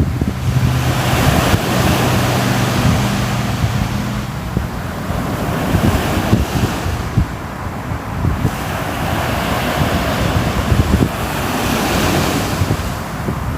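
Sea waves washing in and drawing back in slow swells, with wind buffeting the microphone. A low steady hum sits under the surf for the first few seconds.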